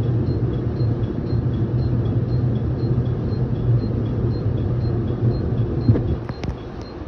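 Electric commuter train running, heard from inside the carriage: a steady low rumble with a faint, evenly repeating tick. About six seconds in, a few sharp clicks come, and the running noise drops.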